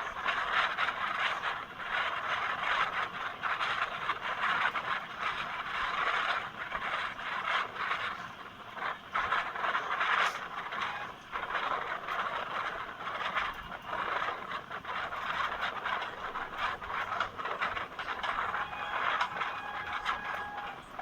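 Train running along the track, its wheels on the rails making a continuous rattling, scraping clatter, with a faint steady tone near the end.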